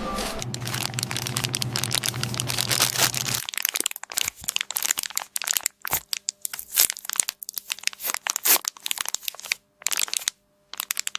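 Dense crinkling and crackling over a low hum, thinning after about three and a half seconds into scattered sharp crackles.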